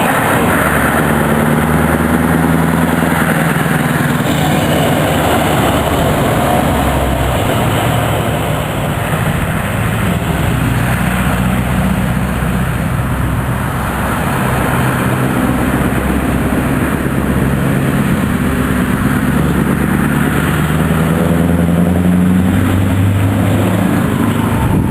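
Scania 164L 580's 16-litre V8 diesel engine running loud and continuously, its pitch rising and falling several times as it is revved or worked through the gears, a little quieter in the middle.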